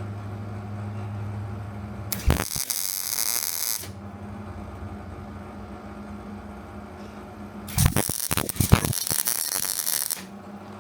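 MIG welder laying two short side welds: two bursts of harsh crackling, the first about a second and a half long starting about two seconds in, the second about two and a half seconds long near the end, with a steady hum between them. The wire speed is set too fast, so the arc jumps and the welds come out poor.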